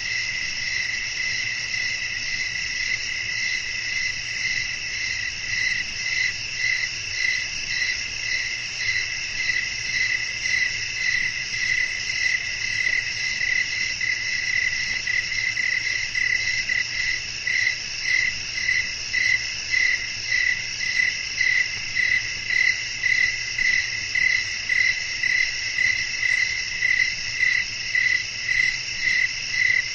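Crickets chirping in a steady night chorus: a continuous high trill with a pulsing chirp about twice a second that grows more distinct partway through.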